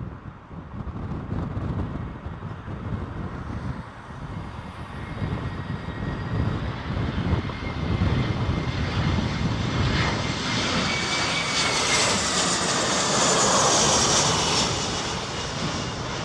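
Jet airliner passing on approach to land: its engine whine builds, is loudest about two-thirds of the way in, drops slightly in pitch as it passes and begins to fade near the end. Gusty wind rumbles on the microphone throughout.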